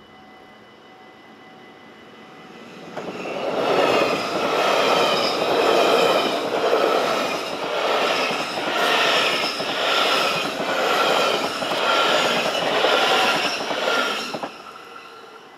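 Yellow NS double-deck passenger train passing fast across a level crossing close by: it comes in about three seconds in, with a noise that swells and dips about once a second as the cars go by, and dies away quickly shortly before the end. A faint steady tone from the crossing's warning bell sits under it at the start and end.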